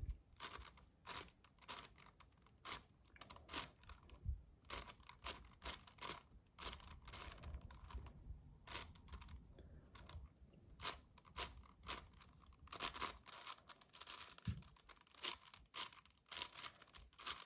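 A 7x7 magnetic Rubik's cube being turned by hand: a quick, irregular run of soft clicks and clacks as its layers are twisted and snap into place, several a second.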